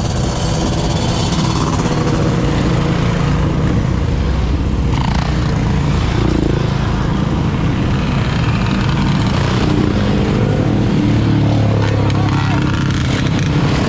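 Motorcycle engines running steadily, their pitch shifting a little with the throttle, with people's voices mixed in.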